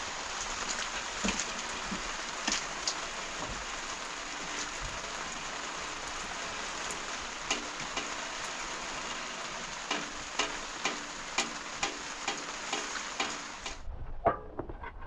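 Steady rain hissing, with scattered sharp drop ticks, cutting off abruptly near the end.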